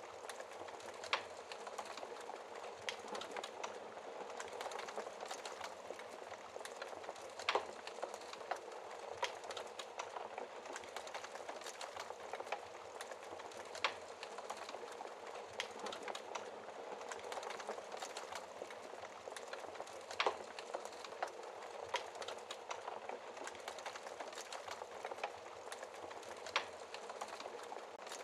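Fire in a fireplace crackling steadily, with a sharper single pop every few seconds.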